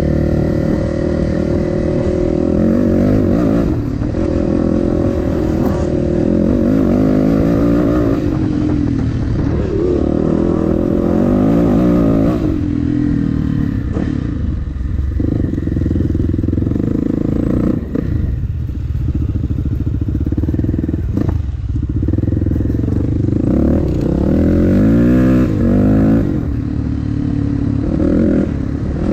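Dirt bike engine running under way, its revs rising and falling again and again with throttle and gear changes.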